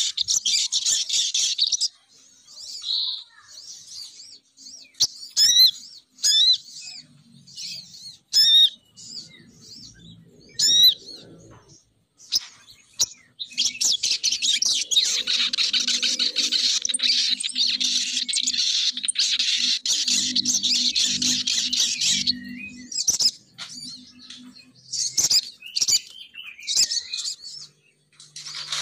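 Lure-call recording of a female sogon bird: long stretches of dense, loud chattering calls, with separate sharp chirps and quick sweeping notes in between.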